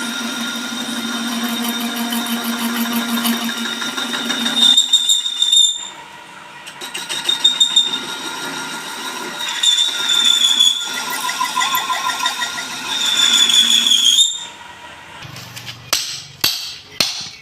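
Metal being machined, likely a hub turned on a lathe, with the cutting tool giving a steady high-pitched squeal that stops and restarts several times. A few sharp metal knocks come near the end.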